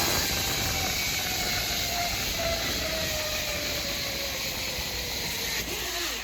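Zip-line trolley pulleys running along a steel cable: a steady hissing rush with a faint whine that falls slowly in pitch as the trolley slows.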